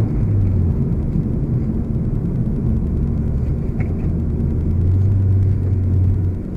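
2016 Ford Focus RS's turbocharged 2.3-litre four-cylinder engine running at steady, fairly low revs with a low drone and road rumble, without rising in pitch; the sound dips briefly near the end.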